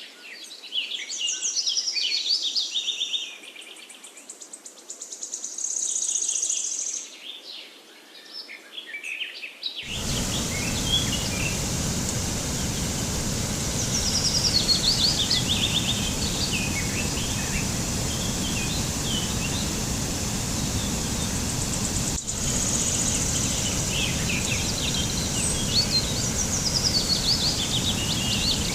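Songbirds chirping in quick runs of short repeated notes. About a third of the way in, a steady rushing noise starts suddenly under the birdsong and carries on.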